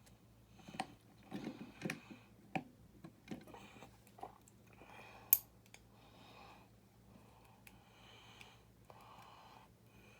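Small plastic building-brick parts clicking and tapping as they are handled and pushed into a Technic brick, with one sharp click about five seconds in.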